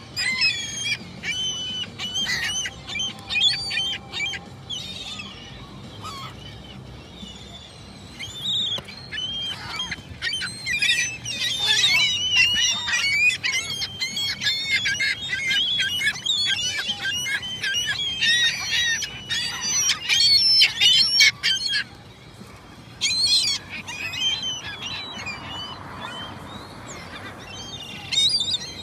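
Seagulls calling, many short repeated cries overlapping. The calling is busiest in the middle and thins out near the end.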